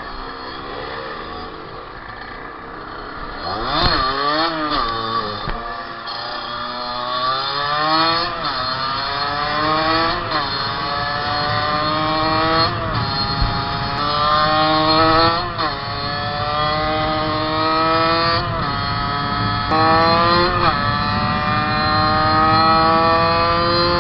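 Fantic 50 motorcycle engine at full throttle, its pitch climbing steadily through the revs and dropping sharply at each gear change, repeating every two to three seconds.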